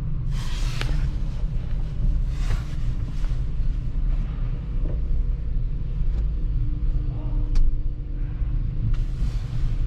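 Steady low rumble of a 2016 Jeep Rubicon heard from inside its cabin, with a few short hissing bursts and a sharp click about three-quarters of the way through.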